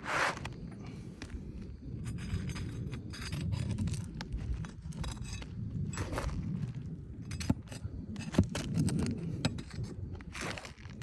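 Scraping and light clinking of roof shingles being handled and shifted, with a couple of sharper clicks about three quarters of the way through.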